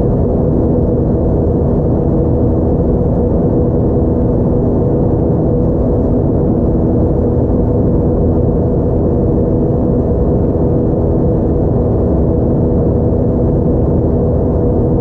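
Airbus A320-232 cabin noise, heard from a window seat near the front: its IAE V2500 turbofan engines running steadily, a low rumble with several steady hum tones over it.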